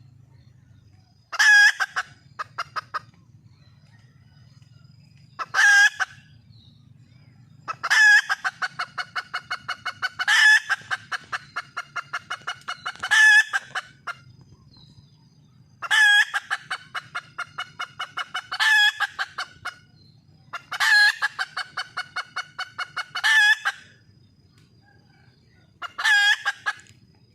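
Red junglefowl hen calling for a mate: about ten cackling phrases, each a loud note followed by a run of quick, evenly spaced clucks, repeated every two to three seconds.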